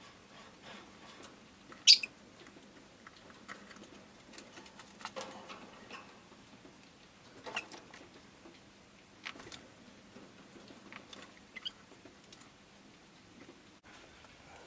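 Rosy-faced lovebird giving one short, sharp, high chirp about two seconds in, among scattered light clicks and scratching, with a few fainter short chirps later.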